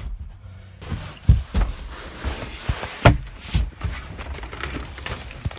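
Irregular thumps and knocks with rustling as a person shifts about on a wooden sleeping platform, with a sharper knock about a second in and another about three seconds in.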